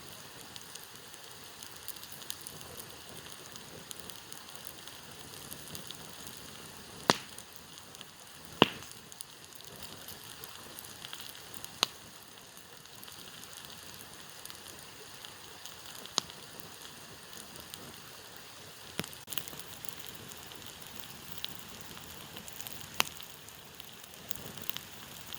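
Campfire burning: a steady hiss with sharp wood pops every few seconds, the loudest about a third of the way in.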